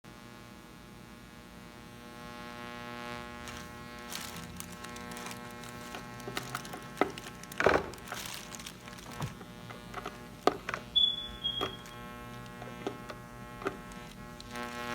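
Steady electrical hum with a string of knocks and clicks over it, the loudest a little past halfway, and a brief high tone about two-thirds of the way through.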